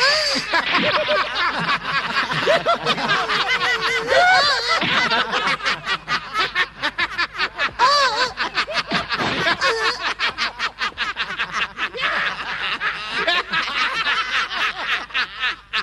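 A group of men laughing loudly and at length in a cartoon voice dub, many voices overlapping in rapid pulses of laughter, cutting off abruptly at the end.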